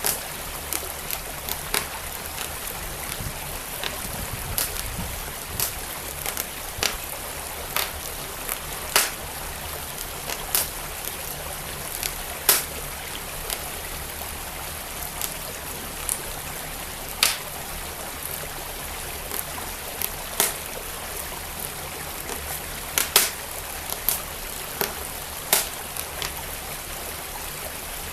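Wood fire in a fireplace crackling with sharp, irregular pops, over the steady rush of a flowing stream.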